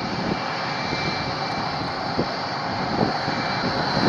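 Jet aircraft engines running steadily: a constant rushing noise with a thin high whine over it.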